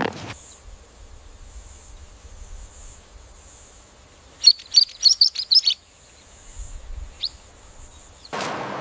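A small bird chirping: a quick run of about seven high, sharp chirps midway, then a single chirp, over a faint steady high-pitched hum.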